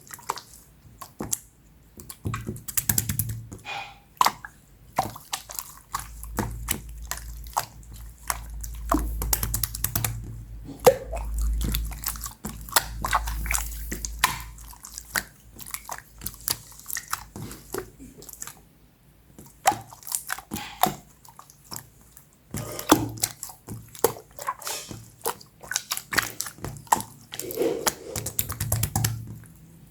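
Close-up handling sounds: a dense, irregular run of wet clicks, crackles and squishes, with low rumbling bumps here and there.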